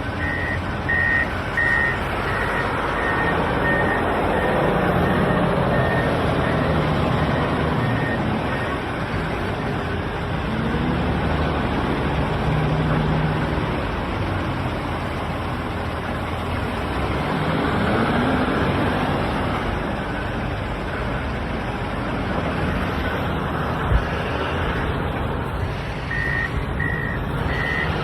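Komatsu WA470 wheel loader's diesel engine working, its pitch rising and falling as it revs under load. A reversing alarm beeps steadily at the start and again near the end, and there is one sharp knock late on.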